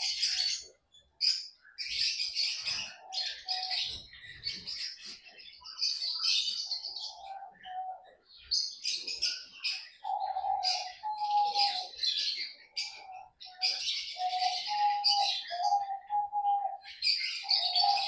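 Pet lovebirds and Java finches chirping in quick, high-pitched clusters that stop and start every second or so. A lower, steady tone comes and goes beneath them.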